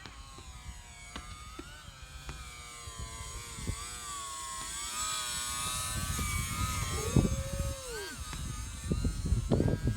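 E-flite Delta Ray One RC flying wing's electric motor and propeller whining as it flies past, the pitch bending up and down as it swoops and growing louder toward the middle. Uneven low rumble and thumps sit underneath, strongest near the end.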